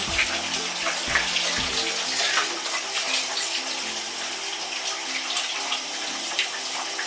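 Shower running: a steady spray of water, with a few light knocks and clicks on top.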